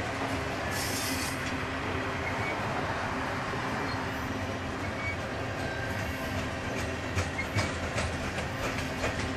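Canadian Pacific covered grain hopper cars of a freight train rolling past: a steady rumble of steel wheels on rail, with sharp clicks and knocks of wheels over rail joints coming more often in the last couple of seconds.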